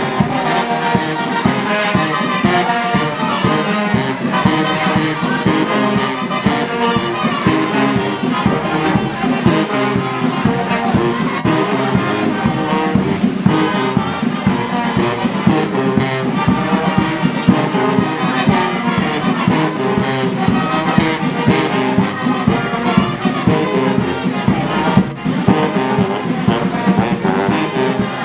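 Brass band playing marching music, with a steady beat and no pause.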